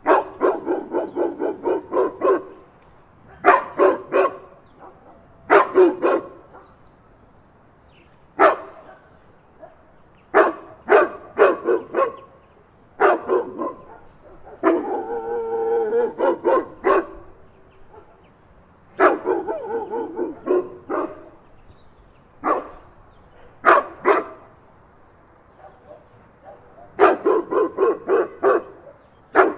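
Dog barking in repeated bursts of quick barks with short pauses between them, and a longer drawn-out call around the middle.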